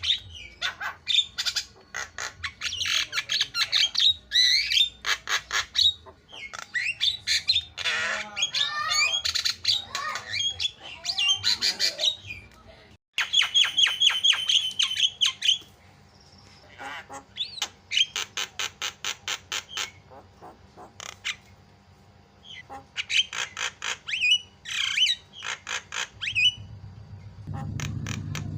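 Javan myna calling non-stop: a varied string of harsh squawks and whistled notes, many given in fast rattling series. The sound drops out briefly about halfway through, and a low hum comes in near the end.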